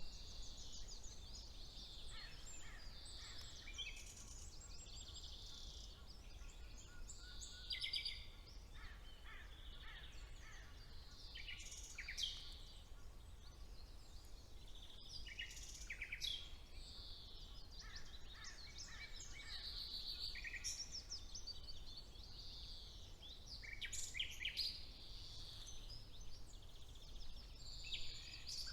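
Several songbirds singing at once in a spring woodland chorus: overlapping chirps, rapid trills and whistled phrases, with a steady low rumble underneath.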